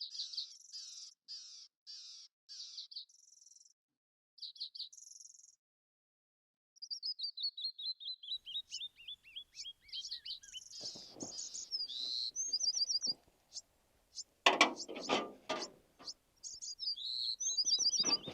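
Songbirds singing: quick repeated high chirps, then a long run of short whistled notes falling steadily in pitch about seven seconds in. About fourteen seconds in comes a brief burst of loud scuffing knocks, louder than the birds.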